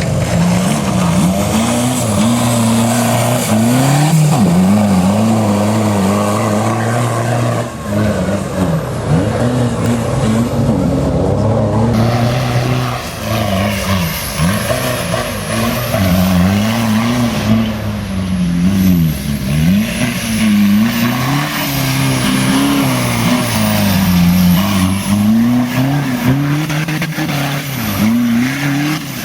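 Four-cylinder 1.9 TDI turbo-diesel engine revving up and down over and over as the vehicle is driven off-road.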